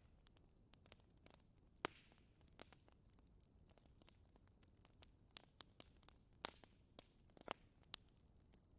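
Wood fire crackling faintly: irregular sharp pops and snaps over a quiet steady hiss.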